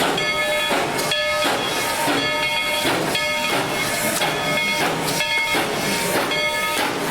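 Narrow-gauge 2-8-2 steam locomotive No. 190 working, its steam exhaust hissing in beats about once a second. A ringing tone sounds between the beats.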